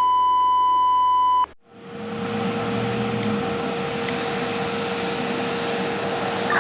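A steady electronic beep tone held for about a second and a half, cutting off suddenly, then steady background noise with a constant hum.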